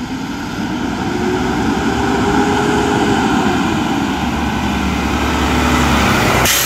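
Mack LR garbage truck's engine revving up, holding high, then easing back down, with a sharp bang or clunk just before the end.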